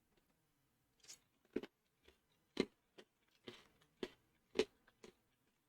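Crunchy cereal being chewed: a run of about eight short, irregular crunches.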